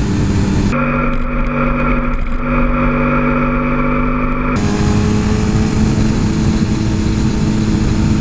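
Suzuki GSX-R 1000 superbike's inline-four engine running at a steady pitch under way, with wind noise over the microphone. From about a second in, for about four seconds, the sound turns abruptly duller in its highs with a stronger whine, then switches back.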